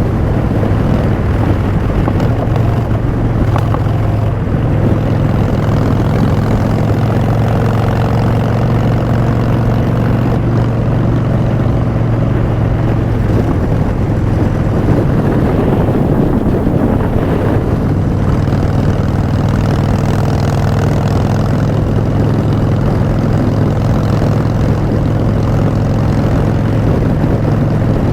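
A 2016 Harley-Davidson Street Bob's V-twin, through Vance & Hines Short Shots exhaust, running steadily under way. The exhaust note changes briefly about halfway through, then settles again.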